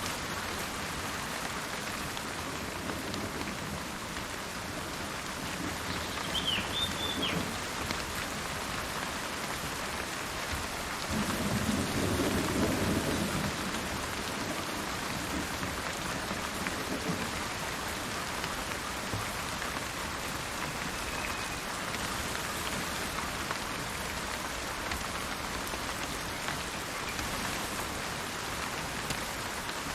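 Steady rain falling in a forest, with a low roll of thunder rumbling about a third of the way in. Near the start a bird gives a brief chirp over the rain.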